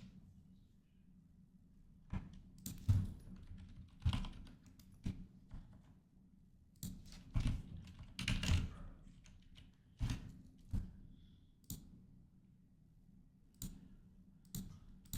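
Typing on a computer keyboard: scattered, irregular keystrokes and clicks in short clusters.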